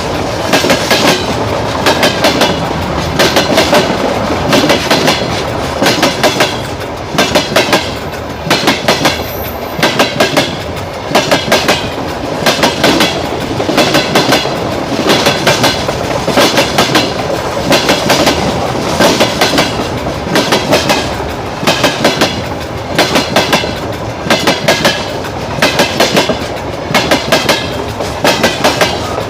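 Freight train wheels crossing a rail joint right over the microphone: a loud clickety-clack of sharp knocks in quick clusters as each bogie's axles pass, repeating over and over, over a steady rolling rumble.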